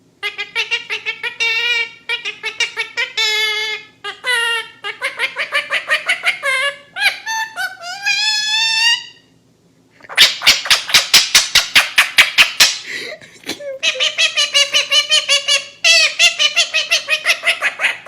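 Parrot mimicking laughter: several long bouts of quick, high-pitched pulsed cackling with brief pauses, a rising glide around eight seconds in, and a harsher run of sharp pulses about ten seconds in.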